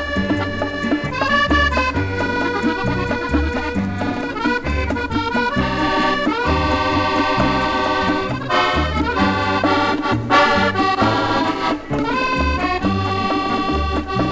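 Accordion-led French bal-musette ensemble playing a melody over a steady bass beat, heard from an old 78 rpm shellac record.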